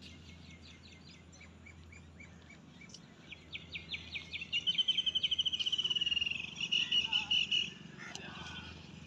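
A small bird singing: soft repeated high notes that grow louder about three seconds in and run into a fast trill, followed by a few shorter phrases near the end.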